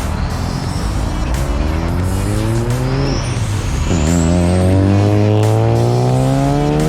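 Car engine accelerating hard: its pitch climbs steadily, drops at an upshift about three seconds in, then climbs again through the next gear.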